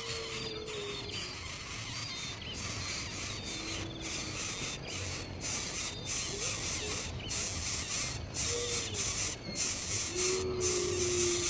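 Short whistled bird calls, some level and some gliding up or down, coming every few seconds over a steady high hiss.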